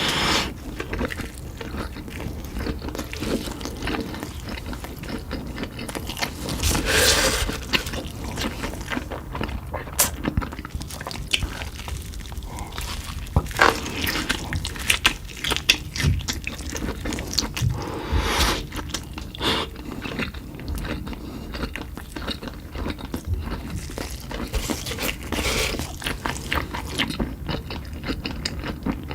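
Close-up eating sounds: bites and chewing of Cheetos-crusted fried meat fingers, a dense run of crisp crunches and crackles.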